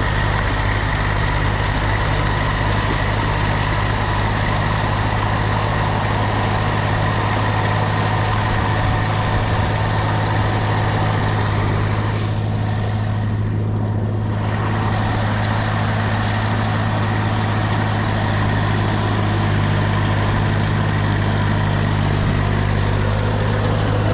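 Tractor engine running at a steady pitch, driving a snowblower through deep snow, with a constant hiss of blown snow over the low hum. The hiss drops away briefly about halfway through.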